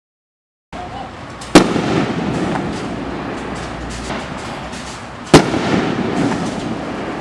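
Consumer fireworks cake of 12 shells (Keystone Color Rush Neon Shells) firing: two sharp, loud reports about four seconds apart, the first about a second and a half in, with a continuous rumble and crackle between them.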